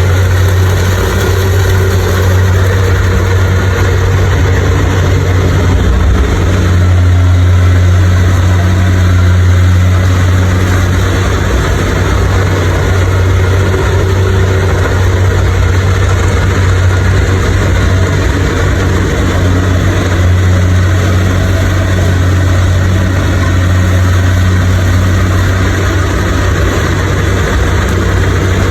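Engine of a harvesting machine running steadily at an even speed: a strong low hum with a constant mechanical noise over it.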